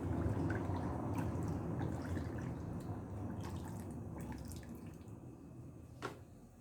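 Hot liquid homemade soap being poured into small moulds: a liquid pouring and dripping sound that slowly fades, with small clicks and one sharper knock near the end.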